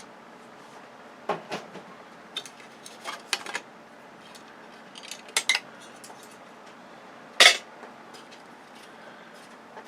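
Scattered light metal clinks and knocks as a steel bracket and small parts are handled on a TV's circuit board, about eight in all, the loudest about seven and a half seconds in.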